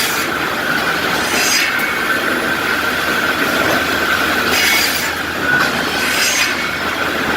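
Steady industrial machine noise in a lumber mill's kiln-drying area, with a continuous high-pitched squeal and swells of hiss every second or two.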